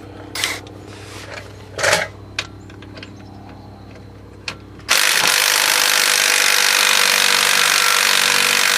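A few light clicks and knocks, then about five seconds in an impact wrench with a 3/8-inch drive runs steadily for about four seconds on a 15 mm wheel hub retaining bolt that does not break loose.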